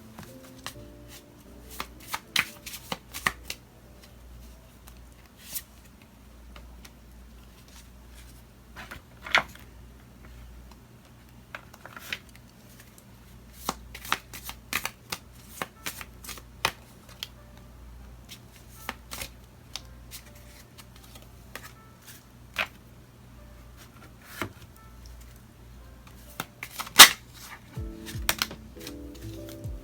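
A deck of tarot cards being shuffled and handled: irregular snaps and flicks of cards, with one sharp snap about 27 seconds in. Soft background music runs underneath.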